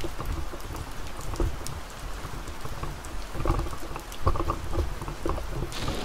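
Rain falling in a storm, with a low rumble that swells and fades and a scattered series of knocks.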